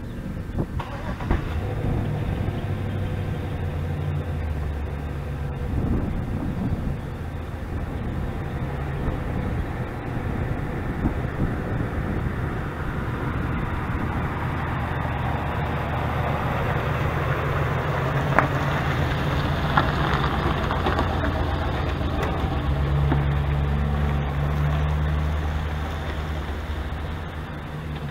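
A car driving on the road: a steady engine hum under tyre and road noise. The engine's low tones shift in pitch a few times, most clearly a little over twenty seconds in.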